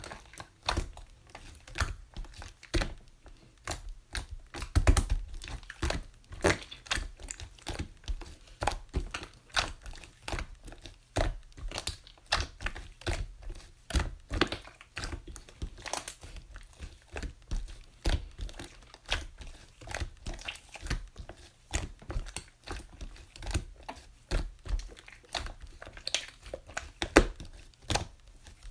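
Slime being squeezed, stretched and pressed by hand, making irregular sticky clicks, pops and crackles, about two or three a second.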